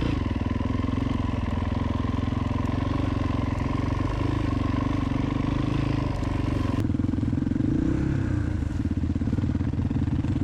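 Trail motorcycle engine running steadily at low speed. A steady high whine stops about seven seconds in, and the engine note rises briefly soon after.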